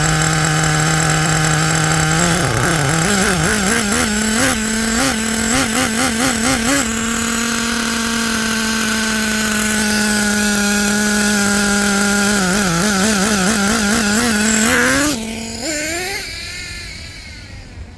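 Traxxas T-Maxx's 3.3 two-stroke nitro glow engine running, with quick repeated throttle blips a couple of seconds in, then held at a steady higher speed. Near the end it revs up and stops abruptly.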